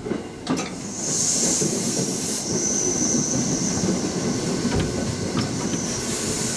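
Train running on the rails, heard from the driver's cab: a steady rumble of wheels with a few rail clicks, and a high, steady wheel squeal from about a second in until near the end.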